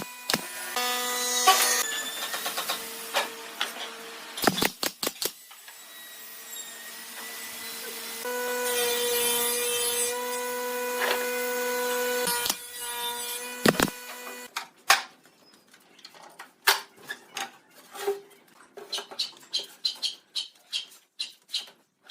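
Woodworking: an electric tool's motor hums in stretches, with sharp clicks between them, then gives way about two-thirds of the way in to a quick, irregular run of taps and knocks on wood.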